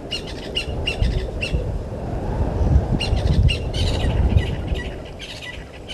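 Birds calling in quick runs of short, repeated chirps, one run at the start and another from about halfway through, over a steady low rumble.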